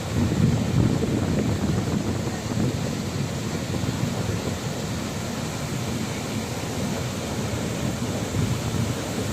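Ocean surf washing in, a steady rushing noise that swells a little at times, with wind on the microphone.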